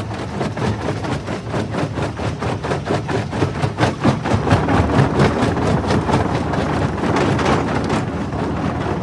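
Jaw crusher running and crushing stone: a continuous, rapid, rhythmic grinding and rattling of rock between the jaws, growing louder around the middle.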